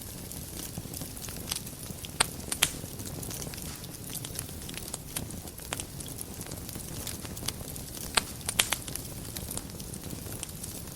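Wood fire burning in a fireplace: a steady low rumble of flames with scattered sharp crackles and pops, the loudest pops about two seconds in and again around eight seconds in.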